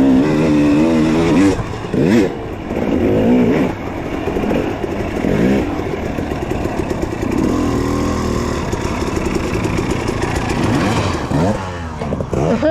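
Small dirt bike engines revving up and down as the bikes ride around, their pitch rising and falling again and again.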